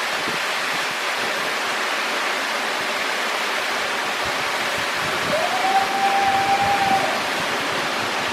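Waterfall rushing steadily. About five seconds in, a single high whistle-like tone rises briefly and then holds level for about a second and a half.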